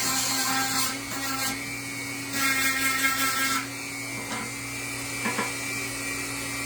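A small electric power tool running steadily at high speed, cutting into the wood in passes that come as louder gritty bursts near the start and again around a third of the way in, as the carving is taken deeper.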